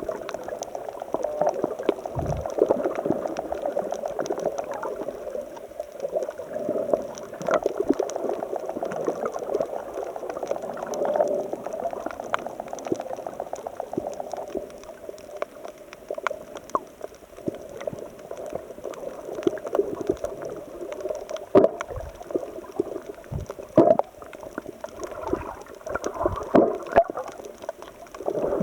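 Seawater churning and gurgling among shoreline rocks, in uneven surges with many small sharp splashes, a few louder ones in the last third. It is the swell stirred up by an approaching typhoon.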